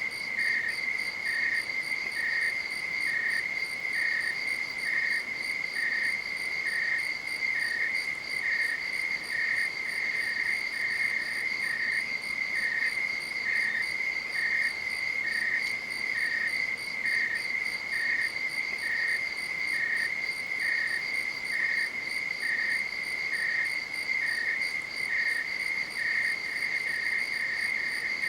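Crickets calling at night: a continuous high trill with a second cricket chirping evenly, a little more than once a second.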